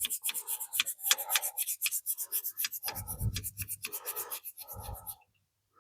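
A brush scrubbing a vinegar-soaked Ford flathead V8 intake manifold in quick back-and-forth scraping strokes, about six a second. The scrubbing stops about five seconds in.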